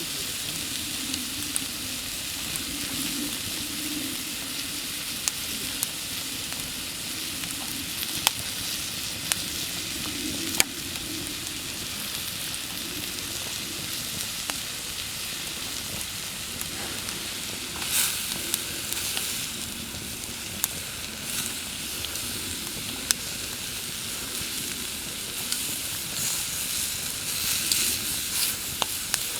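Food sizzling over a campfire in a steady hiss, with scattered sharp crackles and pops.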